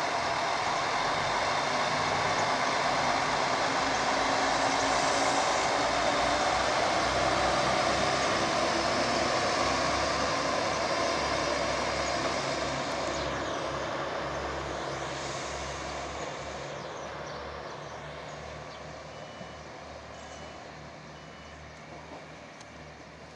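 Train pulling away from the station, its running noise loud at first, then fading steadily as it moves off into the distance.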